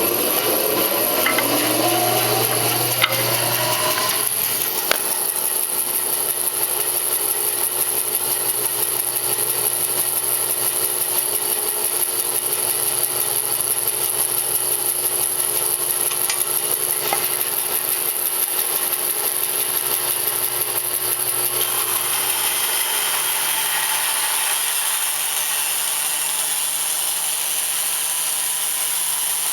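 SCMI bandsaw spinning up, its whine rising over the first few seconds, then running steadily and sawing through wood. The sound changes about three-quarters of the way through.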